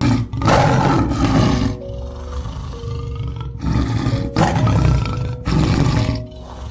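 A lion roaring, several deep roars one after another, over background music.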